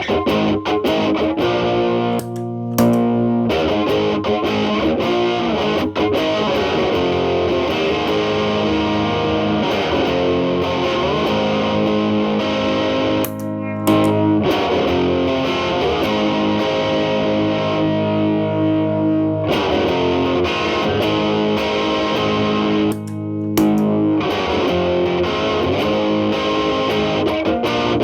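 Electric guitar (Telecaster) played through an MI Audio Crunch Box distortion pedal into a Marshall Valvestate amp's clean channel, gain at 12 and cleaned up to a lighter crunch. Sustained distorted chords and single notes ring on, with brief pauses about 2.5, 13.5 and 23 seconds in.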